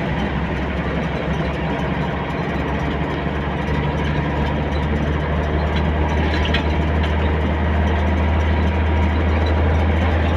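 A motor vehicle's engine running steadily, a low drone that grows slightly louder over the stretch.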